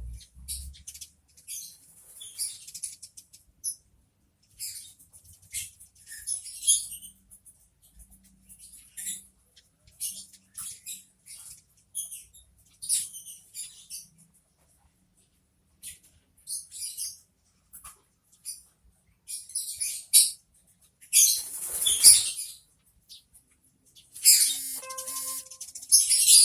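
Eurasian tree sparrows chirping: many short high chirps in quick scattered runs, with a louder rustling burst about three quarters of the way through.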